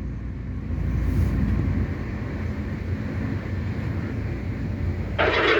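Airport Express train running, a steady low rumble and hiss of wheels and motors heard inside the carriage. Music comes back in near the end.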